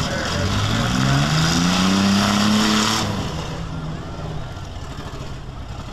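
Demolition-derby minivan engine revving hard, its pitch climbing for about two and a half seconds with a loud rushing noise over it, then dropping back abruptly about three seconds in to a lower, steadier run.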